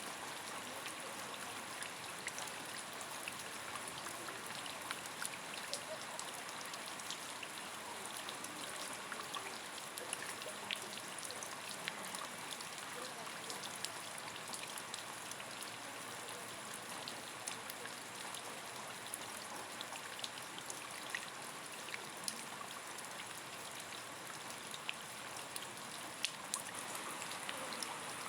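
Steady rain falling, with many separate drops ticking on a nearby surface.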